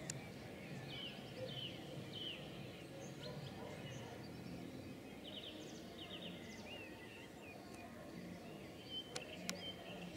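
Birds chirping in short, scattered notes over a steady low rumble of outdoor background noise, with two sharp clicks near the end.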